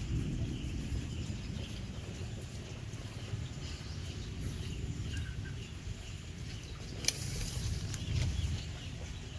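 Rural outdoor ambience after rain: faint bird chirps over a steady low rumble, with one sharp click about seven seconds in.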